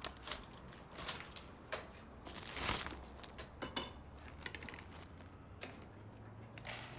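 Scattered light clicks and knocks of objects being handled in a small room, with a longer rustling or scraping swell about two and a half seconds in.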